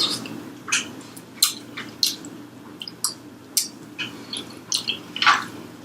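Close-miked chewing and wet mouth sounds of someone eating, with irregular smacking clicks about every half second.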